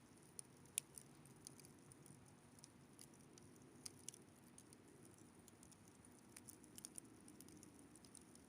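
Wood campfire crackling faintly: irregular sharp pops and snaps, the loudest about a second in and small clusters around four and seven seconds in, over a soft low hum.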